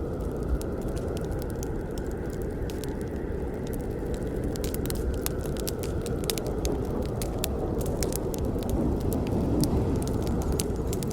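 Campfire burning: a steady low rush of flames under many irregular sharp crackles and pops from the burning wood.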